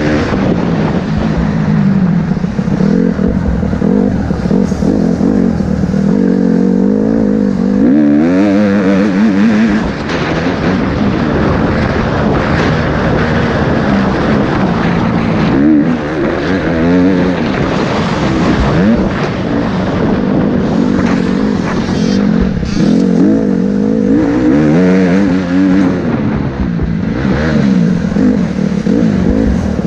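Motocross bike engine running hard, its pitch rising and falling again and again as the throttle is opened and shut.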